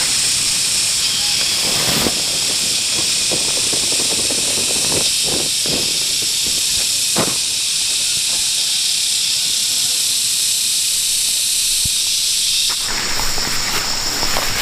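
Steady, high-pitched insect chorus, with a few soft knocks and scrapes in the middle. The chorus changes abruptly near the end.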